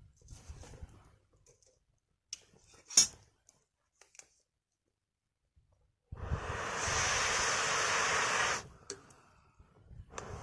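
Wood fire crackling with sparse small snaps and one sharp pop about three seconds in. About six seconds in, a loud, even rushing hiss of air starts suddenly, lasts about two and a half seconds, stops, and starts again near the end.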